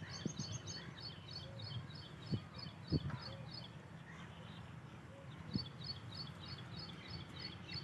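A small bird calling a rapid series of short, high chirps, about five a second, in two runs with a pause between. Under it is a low outdoor rumble with a few soft thumps.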